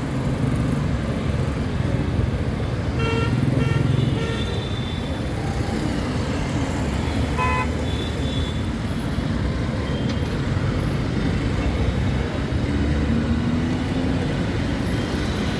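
Steady road traffic rumble with short vehicle horn toots, a couple about three seconds in and another past seven seconds.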